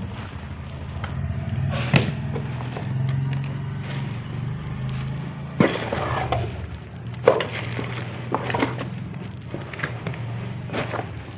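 Motorcycle engine idling steadily, with a few sharp knocks and clicks scattered over it.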